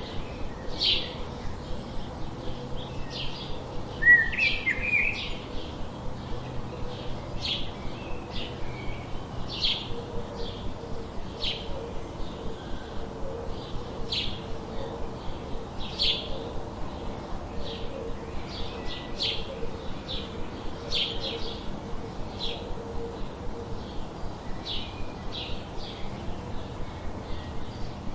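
Birds chirping: a run of short, high chirps about two a second, with a louder call about four seconds in.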